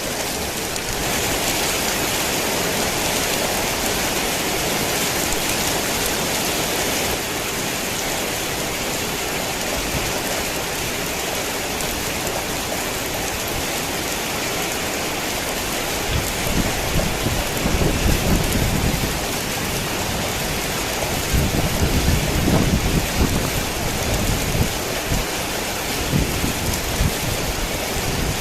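Heavy rain falling steadily, with two low rolling rumbles of thunder in the second half, the later one longer.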